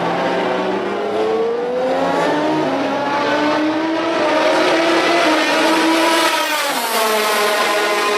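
MotoGP racing motorcycle engines at high revs, more than one heard at once, their pitch rising and falling through acceleration and gear changes, with a sharp drop in pitch about six and a half seconds in.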